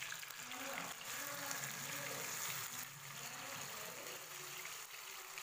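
Marinated chicken drumsticks sizzling steadily as they shallow-fry in oil on a low flame, turned over in the pan with a steel spoon.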